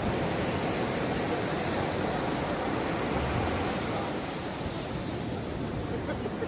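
Sea surf washing onto the shore: a steady rush of breaking waves that eases off a little in the second half.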